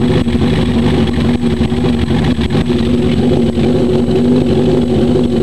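Suzuki GSX-R1100 inline-four engine running loud at steady revs, its pitch holding level.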